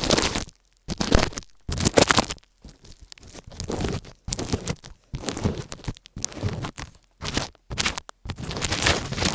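Close-miked ASMR trigger sounds: a run of rough, scratchy rustling bursts, each under a second or so, with short silent gaps between them.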